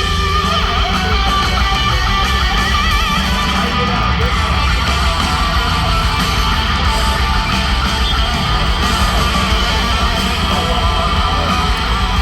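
Live rock band playing an instrumental passage, with strummed and electric lead guitar over bass and drums.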